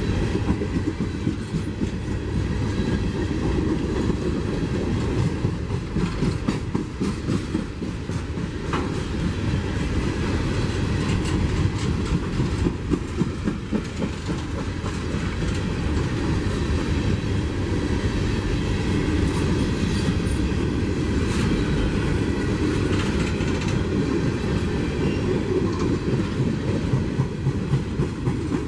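CSX freight train rolling past at track side, its cars' steel wheels clacking and clattering steadily over the rails.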